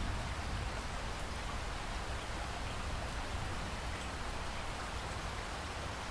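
Steady rain falling: an even, unbroken hiss with a deep rumble underneath.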